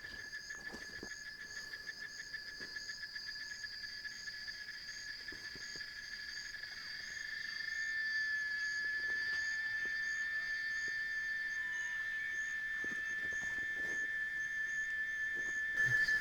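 A rainforest insect chorus: a steady high-pitched drone with a regular pulsing chirp above it, growing louder about halfway through.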